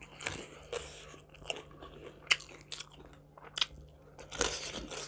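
A person chewing and crunching food close to the microphone, with a sharp crunchy bite every second or so between softer wet chewing.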